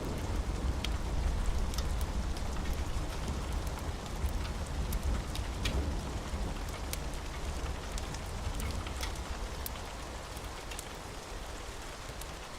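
Steady rain with scattered sharp crackles from a wood fire, over a low rumble that eases off in the second half.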